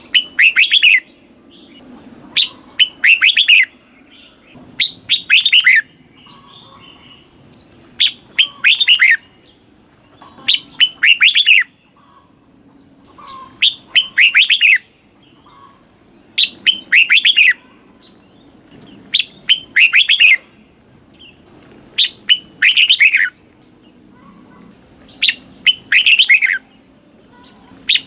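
Red-whiskered bulbul singing: short loud phrases of quick, falling notes, repeated about every two and a half to three seconds.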